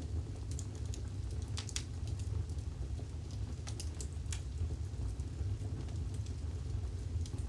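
Wood fire burning in a fireplace: a steady low rumble of the flames with scattered sharp crackles and pops, a few in quick clusters.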